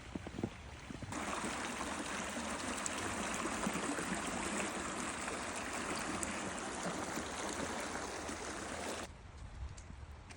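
A steady rushing noise, of the kind running water makes, starts suddenly about a second in and cuts off suddenly near the end.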